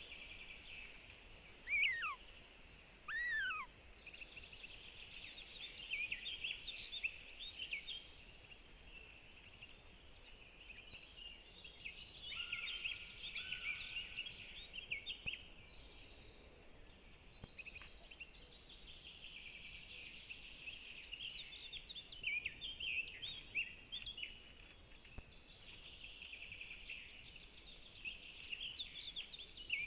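Forest songbirds singing in an overlapping chorus of high twittering phrases, with two loud downward-sliding calls about two and three seconds in.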